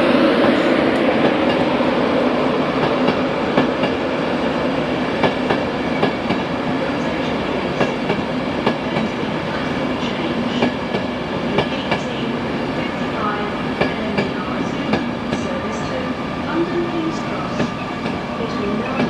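A train running through the station, its wheels clicking over the rail joints again and again. A low hum from the train is strong at first and fades over the first few seconds.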